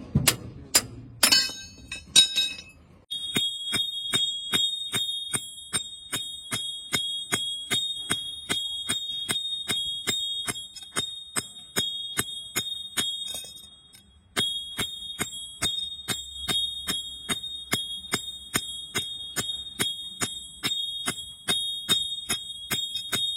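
Steel hammer blows on a truck leaf-spring pack during centre-bolt fitting. A few heavy clangs come first, then a steady run of strikes about three a second, each leaving a high metallic ring, with a brief pause about two-thirds of the way through.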